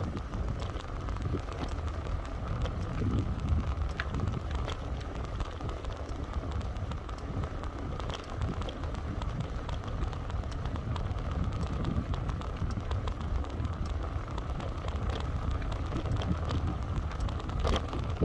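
Steady outdoor noise: a dense low rumble of wind on the microphone, with scattered light ticks throughout, as of raindrops.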